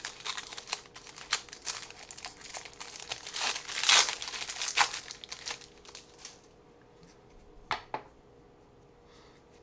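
A pack of trading cards being torn open, the wrapper crinkling and tearing for about six seconds, loudest about four seconds in. Then quiet except for two short clicks near the end.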